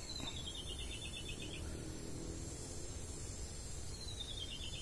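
A bird's descending trilled call, heard twice about four seconds apart, each trill falling in pitch over about a second and a half, over a low steady background rumble.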